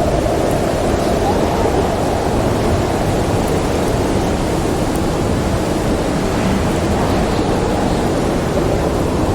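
Storm wind blowing as a steady, dense rushing noise, with a faint whistling howl that bends in pitch about a second in.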